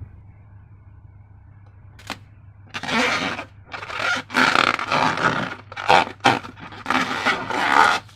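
Hands working a rubber balloon and slime: a single click about two seconds in, then irregular rubbing, scraping and squishing sounds from about three seconds in.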